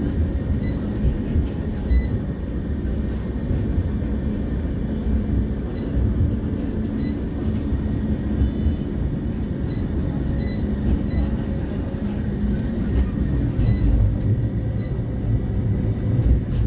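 CAF Urbos 3 tram running between stops, heard from inside: a steady low rumble of wheels on rail and motors, with short high chirps now and then.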